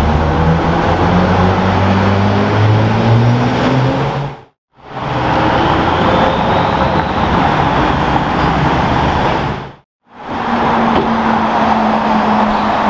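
Three short clips of sports-car engines on a city street, split by sudden cuts to silence. First a Porsche 911 GT3's flat-six accelerating away with a rising note, then a BMW M8 pulling away, then a Porsche 911 GT3 RS running with a steady note.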